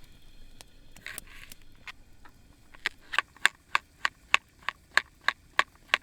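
Knife chopping vegetables on a cutting board: sharp, evenly spaced knocks, about three a second, starting about halfway through, after a brief rustle.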